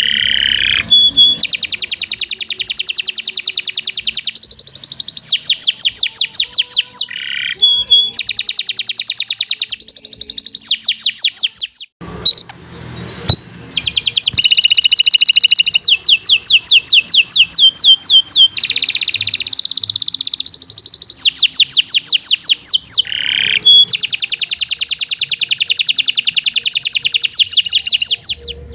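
Domestic canary singing a long, continuous song of fast trills, each a rapid run of repeated high notes, with a brief break about twelve seconds in.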